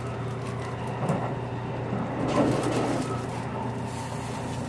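Running noise heard inside a JR Kyushu Series 783 electric train at speed: a steady low hum under the rumble of wheels on track, with a few sharp clicks.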